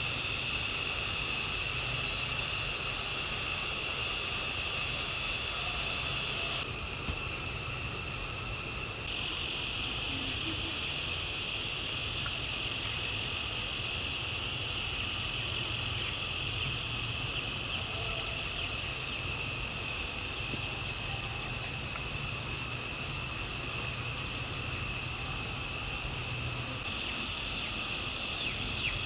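Steady outdoor chorus of insects with a constant high-pitched drone, changing abruptly in level a few times as the footage cuts.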